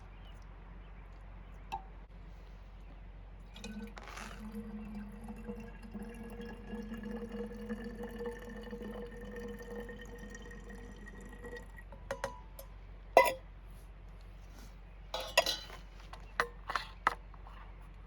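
Hot water poured into a container for soup for about eight seconds, its pitch slowly rising as the container fills. Then come sharp clinks and knocks of a metal lid and cookware, the loudest a single knock about 13 seconds in.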